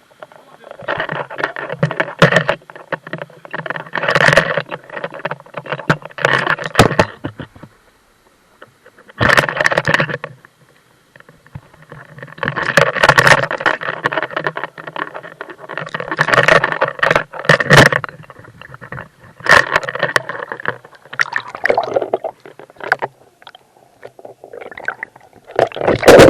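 Water splashing and sloshing close to the microphone in irregular bursts a second or two long, with short pauses between them.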